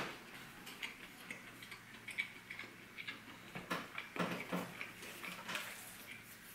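Close-miked chewing of a soft breadstick: faint, irregular mouth clicks and smacks, with a few louder strokes about four seconds in.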